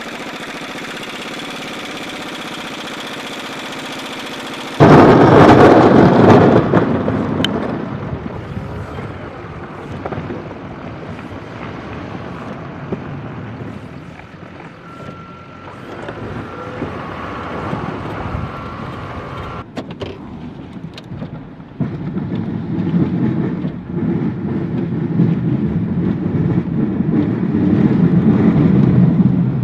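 Trucks running and driving by on snow-covered roads. The sound jumps suddenly loud about five seconds in, then dies back, and a second low rumble builds near the end.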